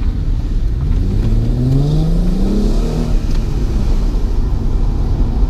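A car engine accelerating as the car pulls away, its pitch rising over about two seconds and then holding steady, over a constant low road rumble.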